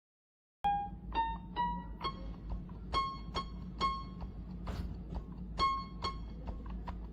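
A keyboard playing a melody of separate piano-like notes, each struck and then fading, over a steady low hum. It starts abruptly about half a second in, after dead silence.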